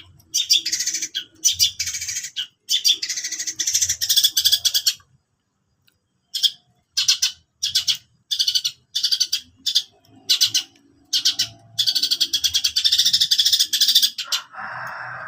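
Long-tailed shrike (cendet) singing energetically in a run of short, harsh high notes and longer scratchy chattering phrases, with a brief pause in the middle. Near the end a lower, steady rasping noise starts.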